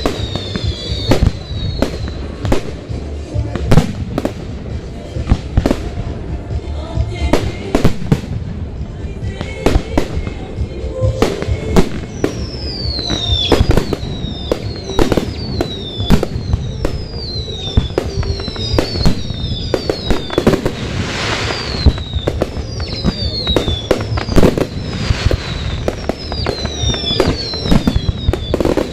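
Fireworks display: a rapid, continuous string of shell bursts, with many short falling whistles overhead. A spell of dense hissing crackle comes about twenty-one seconds in.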